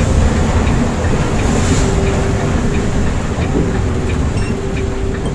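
Volvo B8R coach running steadily on the road, heard from inside the cabin: a low engine and road rumble with a steady whine over it.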